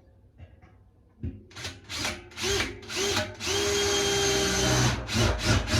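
Power drill drilling into soft metal. It starts about a second in with short stop-start bursts, runs steadily for about a second and a half, then goes back to short bursts.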